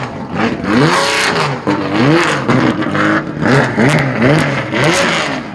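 A car engine being revved over and over, about six quick blips, its pitch rising and falling with each one.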